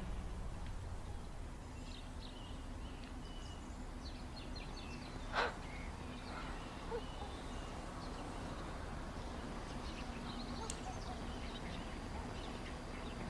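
Quiet ambience: faint scattered bird chirps over a low steady hum, with one brief sharper sound about five seconds in.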